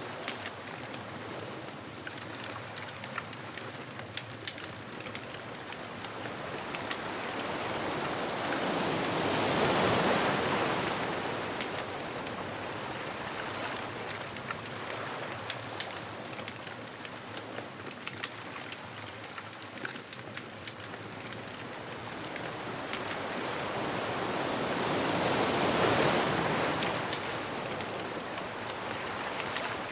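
Ocean waves breaking on a beach: a steady wash of surf that swells twice to a louder crash, about ten seconds in and again near the end, then eases off. Small scattered crackles run through it.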